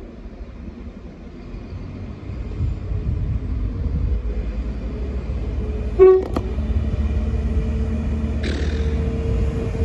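Northern Ireland Railways diesel multiple unit arriving, its engine and running gear rumbling louder as it approaches. It gives one short horn toot about six seconds in, and a brief hiss follows near the end.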